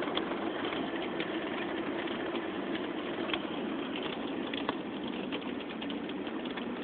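Steady hum inside a car, with scattered light ticks throughout.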